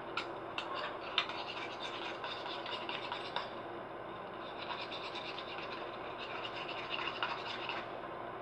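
A utensil stirring hand soap in a bowl: steady scraping and rubbing against the bowl, with small scattered clicks.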